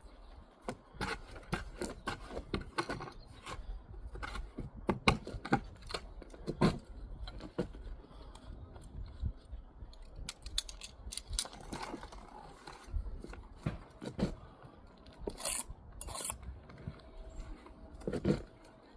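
Steel trowel scraping and tapping on mortar and brick: a run of irregular short scrapes and knocks.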